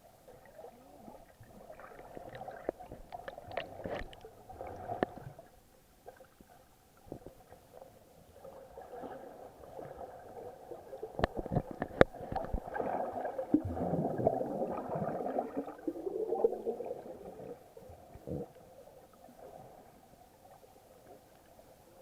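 Muffled water sloshing and gurgling heard through an action camera's waterproof housing while snorkeling, in two swells, the louder one in the middle, with a few sharp clicks.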